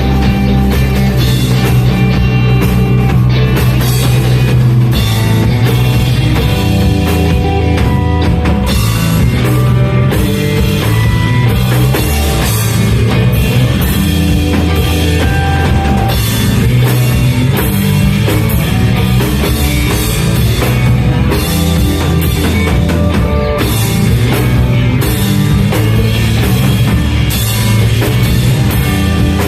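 Math rock played by a band, with drum kit and guitar, loud and steady with no vocals heard.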